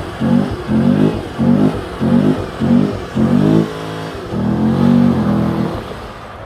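Car engine revved in quick repeated throttle blips, each rising in pitch, about one and a half to two a second, then held for one longer rev and dying away near the end.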